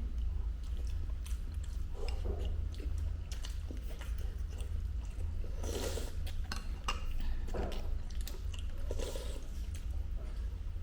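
Close-up chewing with small clicks and mouth noises, over a steady low hum.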